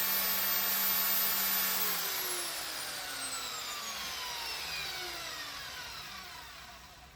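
Electric power tool running steadily, then switched off about two seconds in; its whine falls in pitch and fades as the motor spins down over the next five seconds.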